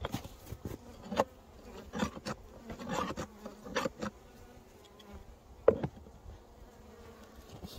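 Honeybees buzzing inside a hive as snow is cleared from its entrance, under a run of irregular scrapes and knocks, the loudest about two-thirds of the way through. The buzz shows the colony has survived the snowstorm.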